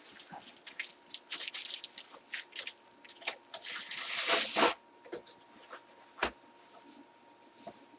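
Rustling and handling noises with many small clicks, a louder rustle lasting under a second about four seconds in, and a single sharp knock about six seconds in.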